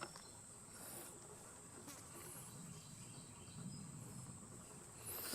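Faint outdoor insect chorus: a steady high trill, with short high chirps about once a second. A louder rustling noise comes in near the end.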